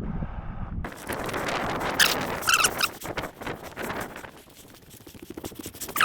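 Footsteps and rustling through dry desert brush, with a few short squeaky scrapes about two to three seconds in and a sharp crackle near the end.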